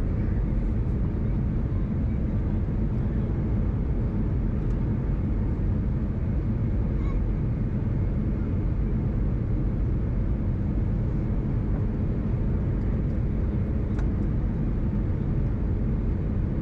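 Steady low cabin rumble of an Airbus A319 in flight, its engines and the airflow past the fuselage heard from a window seat, with a faint tick around two-thirds of the way through.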